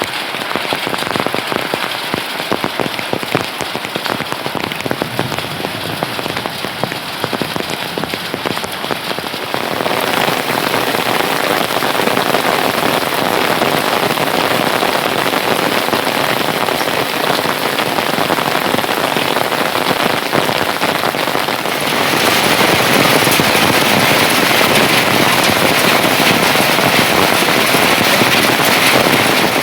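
Steady rain falling on surfaces, a dense hiss of drops with no other distinct sound. It grows louder and brighter about a third of the way in, and again about two-thirds of the way in.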